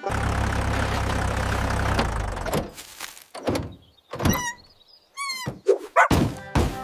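Cartoon sound effects: a steady engine-like rumble for about two and a half seconds, then two short wavering squeaks and a few thuds near the end.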